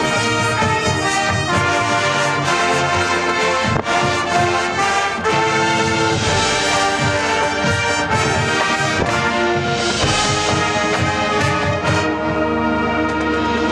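A high school marching band playing, with brass such as trombones and trumpets carrying sustained chords over drum hits. A steady low rumble of wind on the microphone runs underneath.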